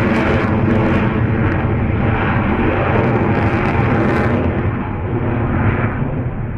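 Aircraft engine noise, loud and continuous with a steady low drone, easing a little near the end.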